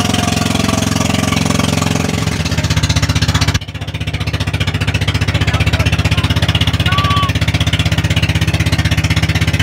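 Small engine running with a rapid, even chugging beat. About three and a half seconds in, the hiss above it drops away abruptly while the engine note carries on.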